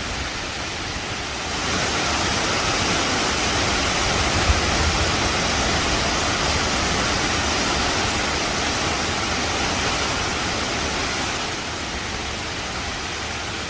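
Waterfall rushing: a loud, steady hiss of falling water that grows louder about a second and a half in and eases back near the end, with a brief low thump about four and a half seconds in.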